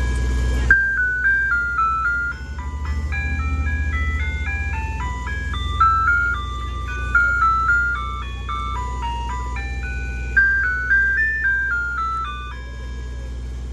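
Ice cream truck's chime speaker playing a simple electronic jingle of quick single notes, with the truck's engine running low underneath.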